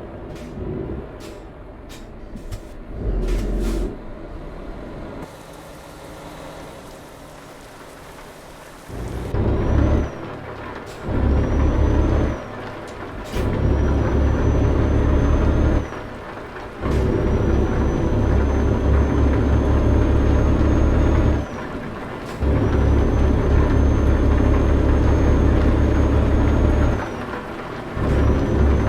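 Heavy truck's diesel engine pulling away and working up through the gears: a loud low drone under load, broken by short dips at each gear change, the pulls growing longer each time. A faint high whine runs through each pull. Before it pulls away there are a few sharp clicks and a short swell of engine sound.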